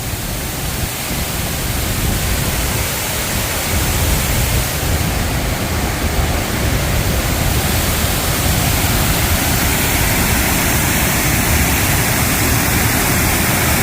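Waterfall rushing steadily, a dense hiss of falling water that grows a little louder over the first few seconds.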